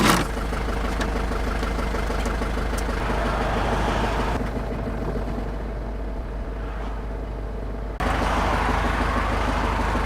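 Motorhome driving, its engine and road noise heard from inside the cab. The sound turns duller about four seconds in and comes back fuller suddenly near the end.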